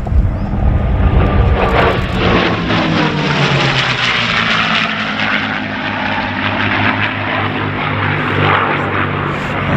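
P-51 Mustang fighters' V-12 piston engines and propellers running at power in a fly-by. The engine note falls in pitch over a few seconds as they pass, then settles into a steady drone.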